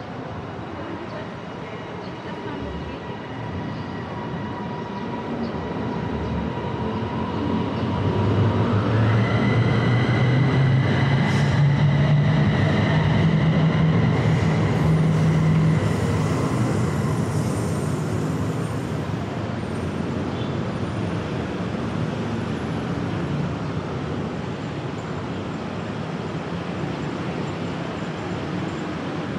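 A train passes close by. It grows louder over several seconds, with a whine that rises in pitch as it comes, then slowly fades away.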